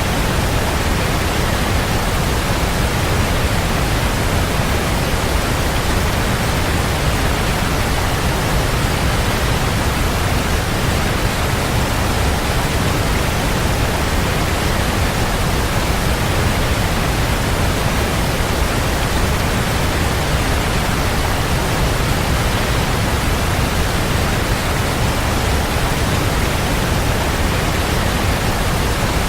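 Waterfall: water falling and splashing, a steady rushing noise with a deep low rumble, unchanging throughout.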